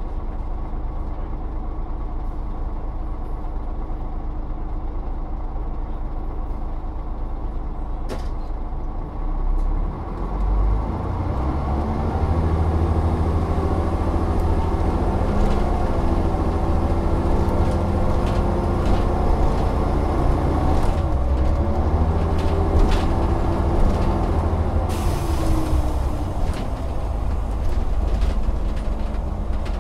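Volvo Olympian double-decker bus's diesel engine idling steadily, with a short air hiss about eight seconds in. The bus then pulls away, the engine note rising and falling as it goes up through the gears, and there is a brief hiss of air near the end.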